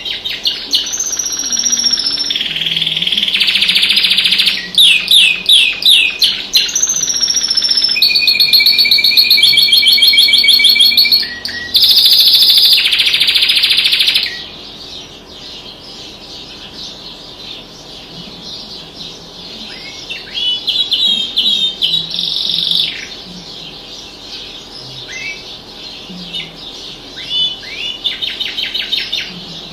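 Caged songbird song from a masteran training recording. For about the first half it is loud and varied, with fast trills and buzzy rolls; after that come quieter, repeated short chirps and brief trills.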